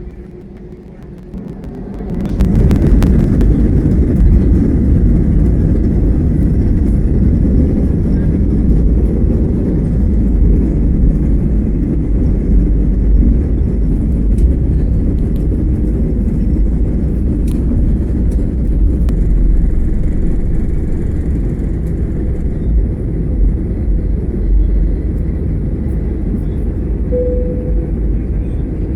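Airbus A320's engines spooling up to takeoff thrust, heard from inside the cabin: the noise swells sharply about two seconds in, then holds as a loud, steady rumble through the takeoff roll. A brief tone sounds near the end.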